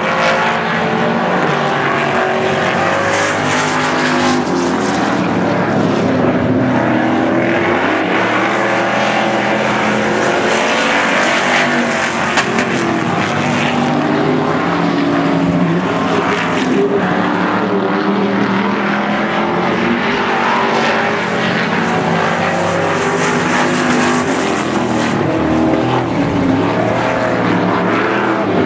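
A field of pure stock race cars running laps together: several engines at once, their pitch rising and falling as the cars go down the straights and ease off into the turns.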